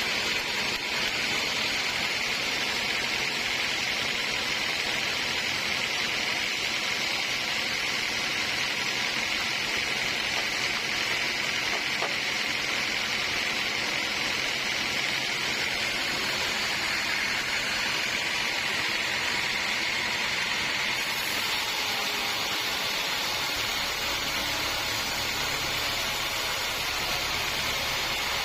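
Sawmill cutting a redwood log: a steady, loud, hissing saw noise. About three-quarters of the way through, the sound changes, with a higher hiss and a low rumble coming in.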